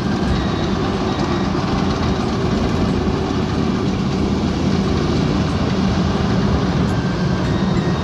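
Diesel engine of a rice combine harvester running steadily under load, a constant low drone with a hum.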